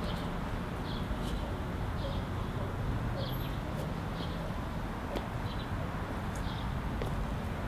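Outdoor ambience: a steady low rumble with a small bird chirping, short high chirps about once a second.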